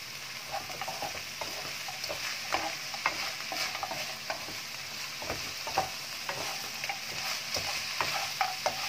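Salted dried fish and spices sizzling in a wok over high heat, with a wooden spatula stirring them and scraping and knocking against the pan in short irregular strokes.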